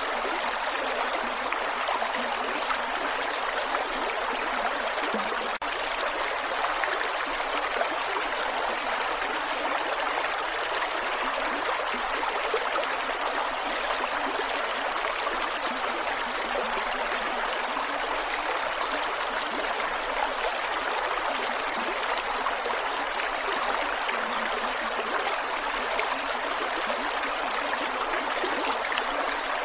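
Creek water flowing over rocks: a steady, unbroken rushing with gurgles.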